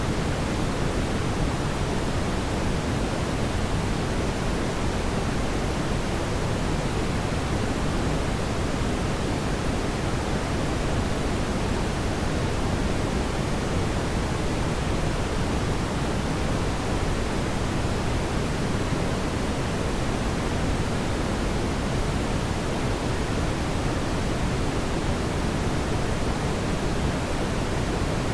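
Fire burning in a fireplace, heard as a steady, even rushing hiss that is strongest in the low end, with no distinct crackles or pops.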